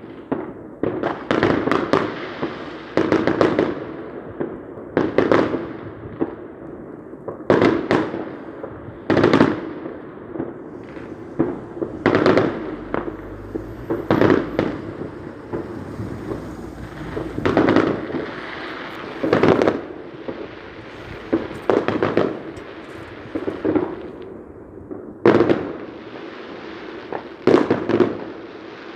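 Fireworks going off in a long, irregular string of bangs, one every second or two, each dying away quickly before the next.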